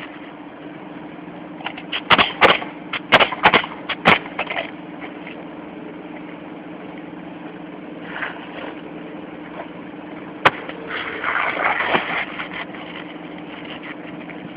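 A steady engine-like hum runs under a haze of noise. About two seconds in comes a quick run of five sharp knocks, with one more later and a brief louder scraping stretch near the end.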